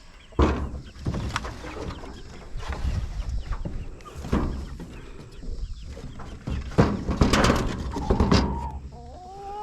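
Domestic poultry clucking, mixed with repeated sharp knocks and handling noise, and a short rising squeal near the end.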